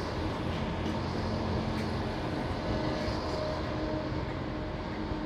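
Electric InterCity 225 train humming steadily, a few faint steady tones over a constant low rumble.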